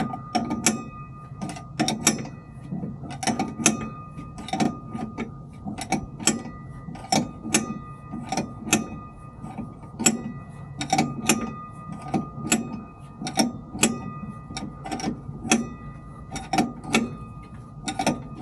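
Ratchet wrench clicking in short, quick strokes, a few clicks a second in irregular bursts, as a nut is tightened while a new shock absorber is fitted.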